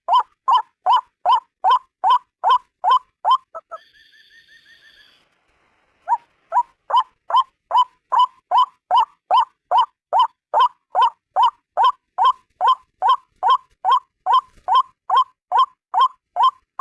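White-breasted waterhen (ruak-ruak) calling a loud, fast series of repeated notes, about two or three a second. The series breaks off a little under 4 s in, a brief fainter call follows, and after a short pause the repeated notes resume about 6 s in.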